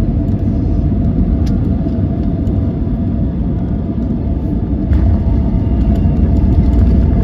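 Airbus A320 cabin noise on the approach or landing: a steady low rumble of engines and airflow, with a few light knocks. It grows louder from about five seconds in.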